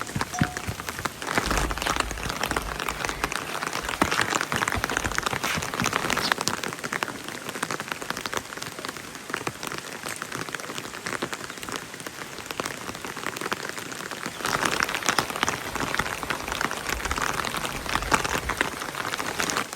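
Steady rain, a dense stream of drops striking a surface, swelling heavier in the first few seconds and again near the end.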